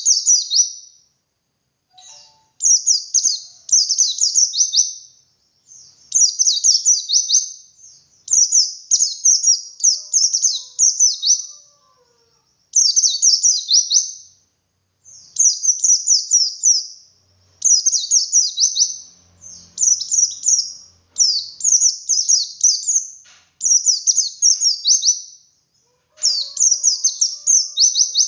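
Pleci dakun (white-eye) singing its 'ngalas' song with 'wit wit' variations: fast, high, twittering phrases of quick downward-sweeping notes. The phrases come in bursts of a second or two, each followed by a brief pause.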